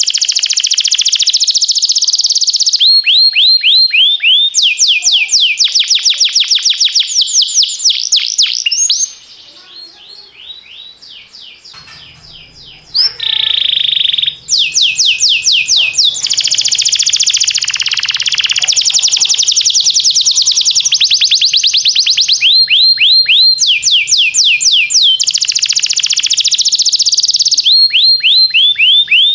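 Domestic canary singing its song of fast rolling trills, many rapid notes repeated in runs. About a third of the way through the song drops away for a few seconds, then comes back with a short steady whistled note before the fast trills resume.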